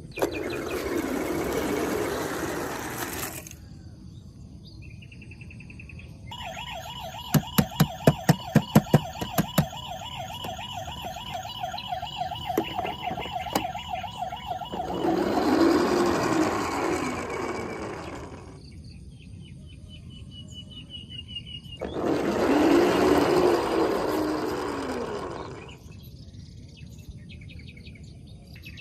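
Battery-powered toy vehicles playing electronic sound effects through small speakers. Three loud, harsh siren-like wails, each a few seconds long, the first at the start. Between the first two, a steady buzzing tone with a fast run of sharp clicks.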